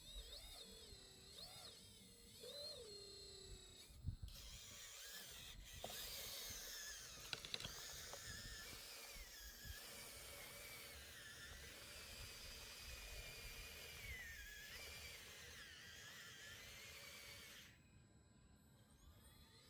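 Faint whine of a small electric motor on a radio-controlled scale model, its pitch rising and falling as the load changes, dropping away near the end.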